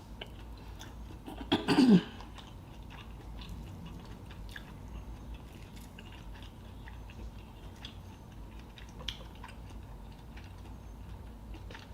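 Close-up chewing of seafood, with faint wet mouth clicks and smacks. A short vocal sound with a falling pitch, such as a hum, comes about two seconds in.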